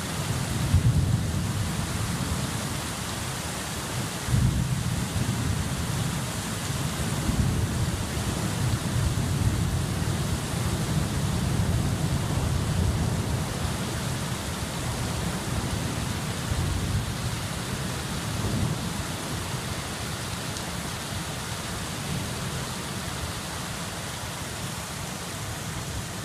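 Steady rain falling, with rolls of thunder. The thunder is strongest about a second in and again around four seconds in, rumbles on through the middle and fades in the last part.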